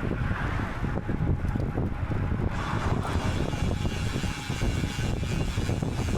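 Wind buffeting the microphone while riding a road bike, a loud, uneven low rumble. About two and a half seconds in, a brighter hiss joins it.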